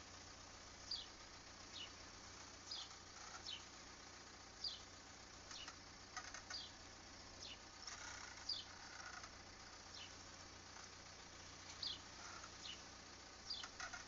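Ford Mondeo Mk4 squeaking: short, high-pitched falling squeaks about once a second, unevenly spaced.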